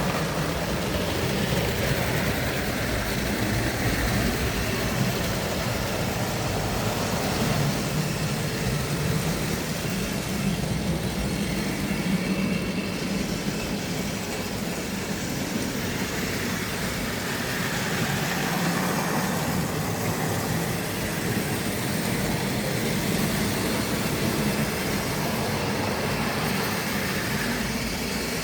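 Tri-ang model train running steadily around its track, a continuous motor hum with wheel and rail rumble.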